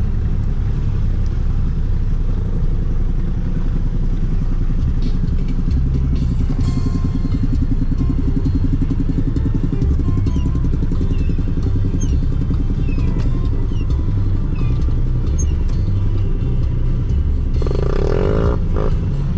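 Off-road vehicle engine running with a steady low rumble, its note shifting briefly near the end.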